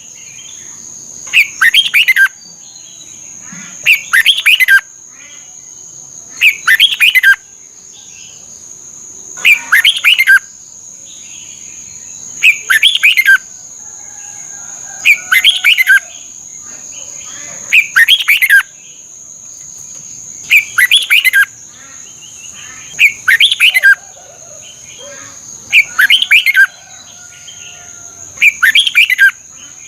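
Red-whiskered bulbul singing: a short, loud, warbling phrase repeated about every two and a half to three seconds, with softer calls between. A steady high-pitched whine runs underneath.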